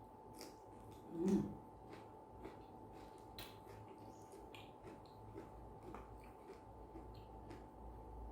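Close-up chewing and small mouth and utensil clicks of someone eating rice and vegetables, with a brief low hummed sound about a second in, the loudest moment.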